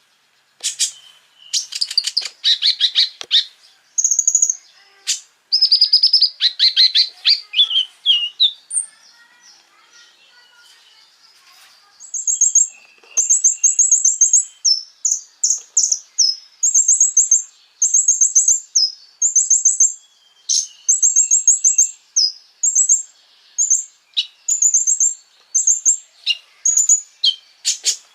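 Konin songbird singing rapid strings of sharp, high chirps and fast trills. There is a short lull about nine seconds in, then a run of quick repeated high notes.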